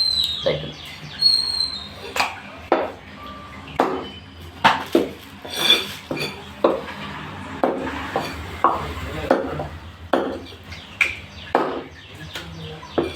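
Butcher's cleaver chopping raw chicken into small curry pieces on a chopping block: a steady run of sharp strikes roughly every second, a few with a brief metallic ring.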